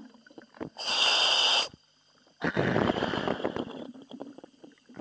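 Diver breathing through a demand regulator: a hissing inhale about a second in, then a longer, rougher exhale.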